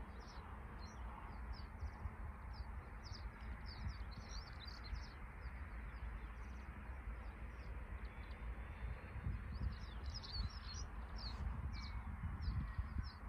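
Small birds chirping in many short, high calls over a low rumble of wind on the microphone.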